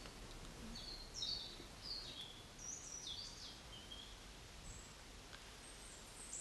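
Faint birdsong: a quick run of high chirping notes in the first few seconds, then a few thinner high calls, over a low steady background hiss.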